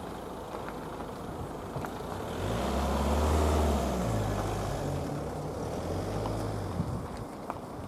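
Class 156 diesel multiple unit pulling away from the platform: its diesel engine note swells about two and a half seconds in, changes pitch a second or so later, then fades away near the end.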